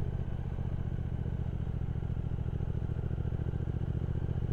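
Triumph Speed Twin 1200's parallel-twin engine running steadily at cruising speed, a low even rumble.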